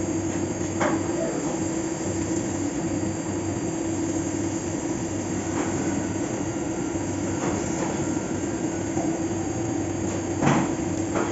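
Fagima Jazz M 5-axis CNC machining centre running a toolpath: a steady machine noise with a constant pitched whine and low hum. A few short sharp ticks, the strongest near the end.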